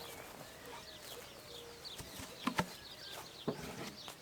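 Outdoor ambience with small birds chirping, a few short steady hums, and two soft knocks about two and a half and three and a half seconds in.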